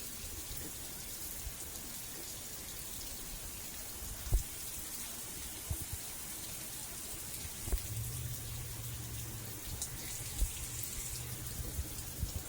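Steady rain falling, with scattered heavier drops thudding close by, one louder than the rest about four seconds in. A low steady hum comes in about two-thirds of the way through.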